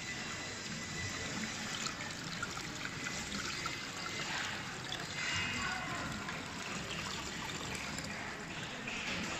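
Water pouring and trickling steadily over the waterfall of an aquarium flow tank whose current is driven by four Panta-Rhei 42 flow pumps.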